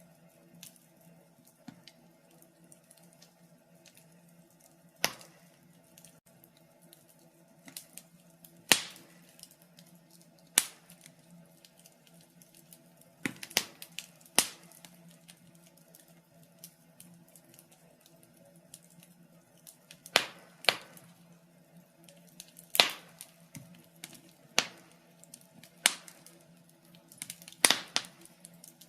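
Wood fire in a fireplace crackling: irregular sharp pops and snaps, a few seconds apart, over a faint steady low hum.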